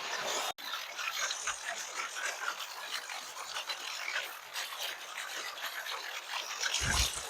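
A steady hiss that cuts off abruptly about half a second in. Then crunching and scuffing of footsteps on a forest trail over a fainter hiss, with a low thump near the end.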